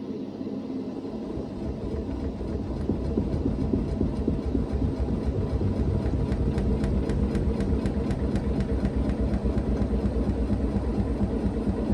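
Hoover VHD 9163 ZI washing machine in its final spin, the drum spinning up. The sound grows louder over the first two or three seconds, then holds at a steady, fast rhythmic throb.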